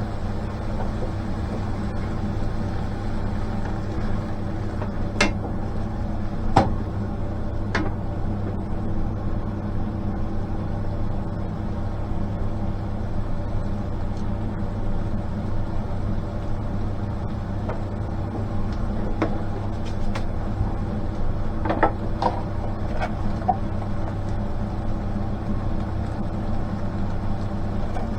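A steady mechanical hum with a few sharp clicks and taps: a handful in the first eight seconds and a small cluster a little past twenty seconds in.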